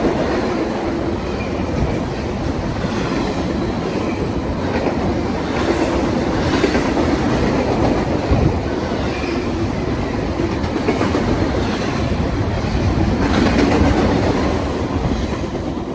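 Cars of a Union Pacific double-stack intermodal train rolling past close by: a steady rumble of steel wheels on rail with repeated clacks as the wheels cross rail joints. It starts to fade near the end as the last cars go by.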